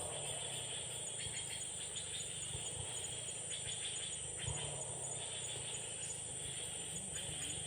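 Steady high-pitched insect drone of forest ambience, with a few faint knocks and clatters.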